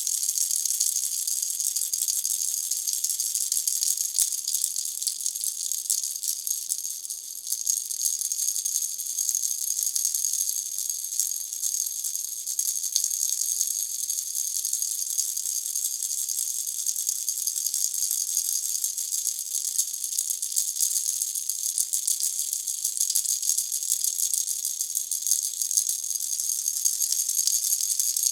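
Pineapple-shaped baby rattle being shaken continuously: a dense, steady, high-pitched rattling, with a brief lull about seven seconds in.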